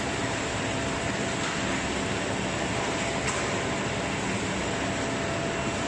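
Steady mechanical din of a whole-chicken weight sorting line running, with a faint steady hum tone through it and a faint click about three seconds in.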